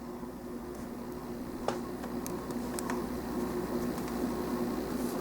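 A few light clicks of plastic model-kit parts and a poly cap being handled, over a steady background hum.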